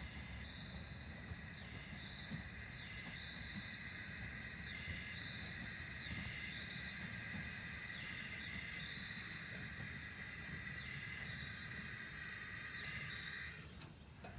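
Narrow-gauge steam locomotive hissing steam steadily over a low rumble, the hiss shifting about once a second; it cuts off suddenly near the end.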